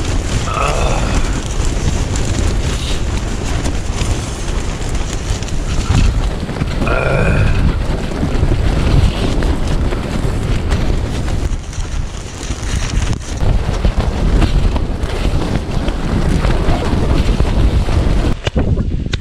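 Strong mountain wind buffeting the microphone, a loud, continuous rumble that dips for a moment near the end.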